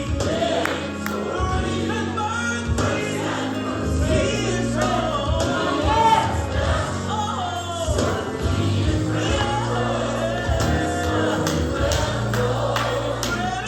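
Gospel music with a choir and a male voice singing over steady bass and drums.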